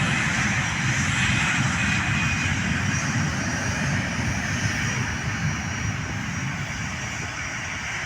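Airliner's engines running loud and steady as it passes at the runway, with a faint high whine over a low rumble, easing slightly near the end.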